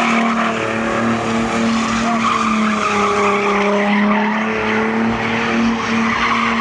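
A car doing donuts or a burnout: the engine is held at high revs at a near-steady pitch that dips slightly partway through, while the tyres squeal and hiss against the pavement.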